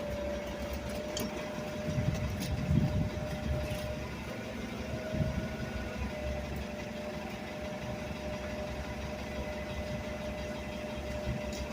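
A motor running steadily: a low hum with a constant high whine over it, and a few louder bumps about two to three seconds in.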